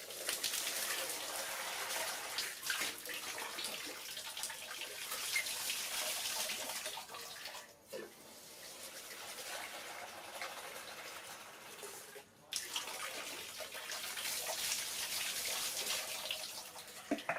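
Water running steadily for the baby monkey's bath, with two brief breaks about eight and twelve seconds in.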